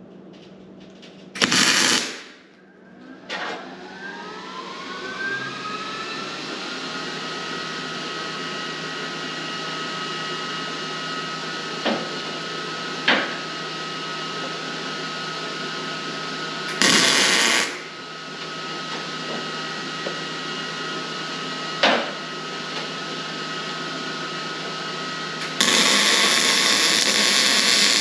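A power tool's electric motor spins up, its whine rising for a couple of seconds, then runs steadily with a hum. It is broken by loud hissing bursts of about one and two and a half seconds near the middle and the end, plus a few sharp clicks, during fabrication of a welded pipe-fitting adapter.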